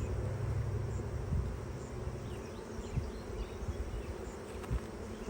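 Honey bees buzzing around an open hive, a steady low hum that thins out about halfway through, with a few soft low bumps.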